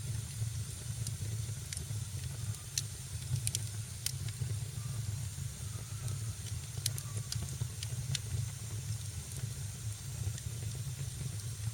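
Wood fire crackling in a fireplace: scattered sharp pops and snaps over a steady low rumble and hiss.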